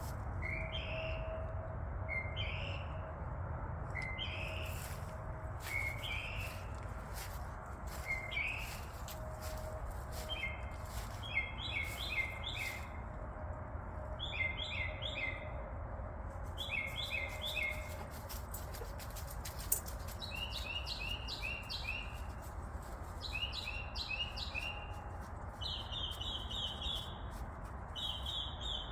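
Bird chirping persistently at night. Short rising chirps come about every one and a half to two seconds at first, then quick runs of three to five notes, over a steady low rumble.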